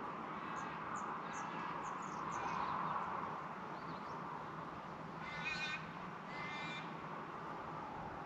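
Birds calling: thin high chirps during the first few seconds, then two short, harsh, buzzy calls about a second apart a little past halfway, over a steady background hiss.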